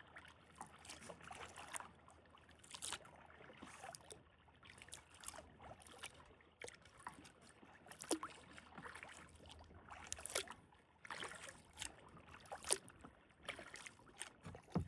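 Faint splashes and drips of a kayak paddle dipping into the water, coming irregularly about every second or two.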